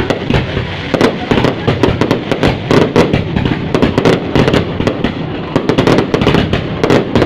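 Fireworks going off in a dense barrage: many sharp bangs and crackles, several a second, overlapping without a break.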